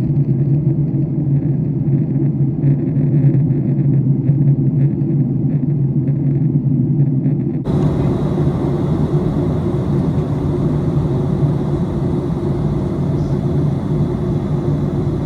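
Steady airliner cabin noise in flight: a low rumble of engines and airflow. About halfway through it switches abruptly to a brighter, hissier version of the same noise.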